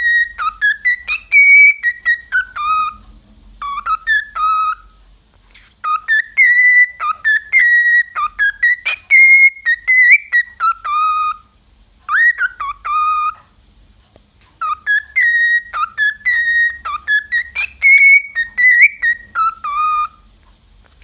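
A parrot whistling a tune: quick whistled notes that slide up and down, in phrases of a few seconds broken by short pauses.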